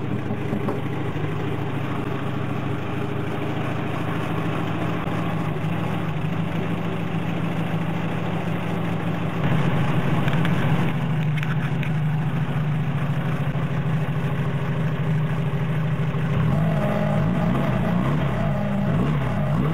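A car engine idling steadily, getting a little louder about halfway, then revved up and down several times near the end.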